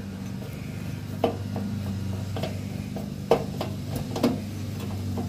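Scattered metal clicks and knocks of hardware and a hand tool at a dishwasher's door hinge while its broken door spring is being refitted. There are about seven in all, the loudest a little over a second in and just past three seconds, over a steady low hum.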